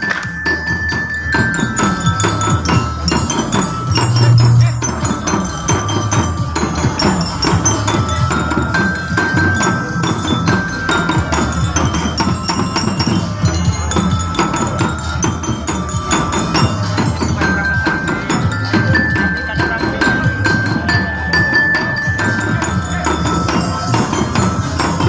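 Many teklek, Javanese wooden clog sandals, clacking on the ground together in a dense, rhythmic run of wooden knocks, with music playing a chiming melody over them.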